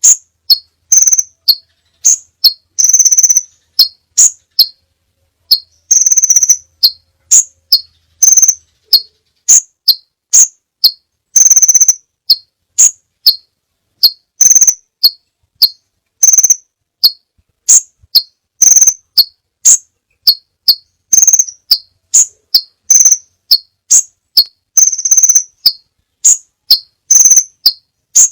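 Crimson sunbird calling: a steady series of short, sharp, high-pitched notes, roughly two a second, with a few longer trilled notes mixed in.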